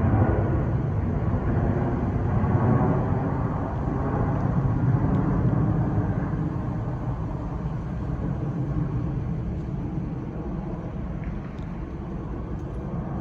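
Jet airliner engines rumbling, the noise slowly fading as the aircraft moves away.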